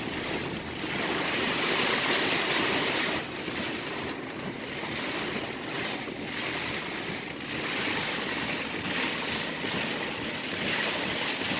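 Heavy rain beating on a car's roof and windows, the noise swelling and easing every few seconds as gusts drive it.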